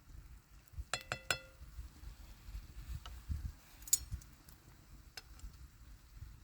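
Hard clinks of camp cooking gear: three quick ringing clinks about a second in, then a single sharper clink near four seconds, over a faint low background rumble.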